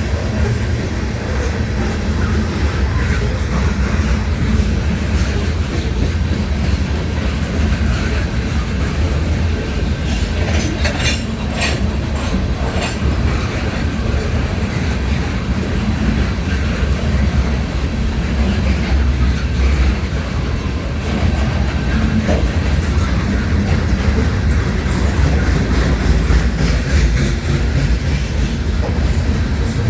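Freight train of sand cars rolling past, its wheels clicking steadily over the rail joints with a low rumble. A brief high-pitched wheel squeal comes about eleven seconds in.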